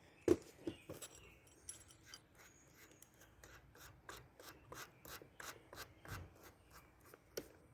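Drill bit being slipped into the keyless chuck of a Ryobi One+ cordless drill and the chuck sleeve turned by hand: a few sharp clicks near the start, then a run of light ticks and rubbing.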